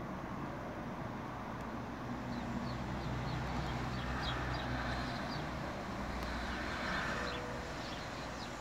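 Small birds chirping: short high chirps in quick runs from about two seconds in, over a steady low outdoor rumble.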